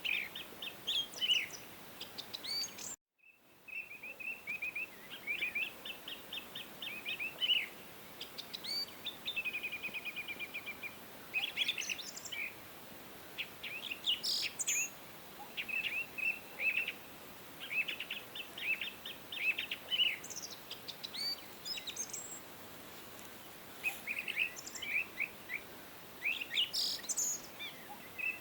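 Songbirds chirping and singing in quick overlapping phrases and trills over a steady hiss of background noise. The sound cuts out completely for a fraction of a second about three seconds in, at a splice in the recording.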